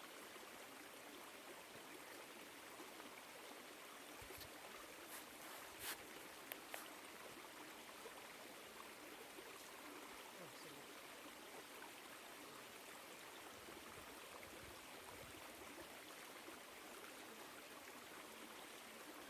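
Small woodland stream flowing, a faint, steady rush of water, with a couple of light ticks about six seconds in.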